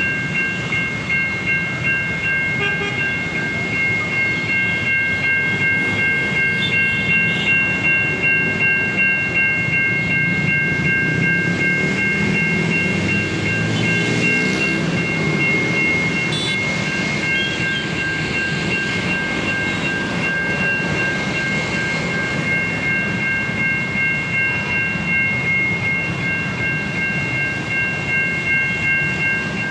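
American-style electronic warning bell of a Siemens level-crossing signal sounding steadily as a train passes through the crossing, its rumble and wheel clatter on the rails swelling and fading beneath the bell about halfway through.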